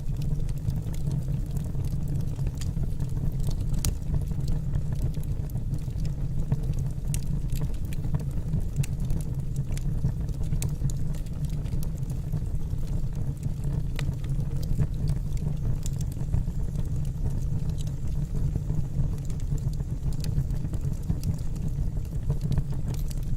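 Wood fire burning in a fireplace: a steady low rumble of the flames with sharp crackles and pops of the burning logs scattered irregularly throughout.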